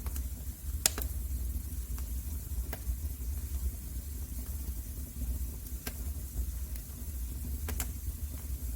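Wood fire in a fireplace crackling: a steady low rumble from the flames with a handful of sharp pops, two close together about a second in and others scattered through.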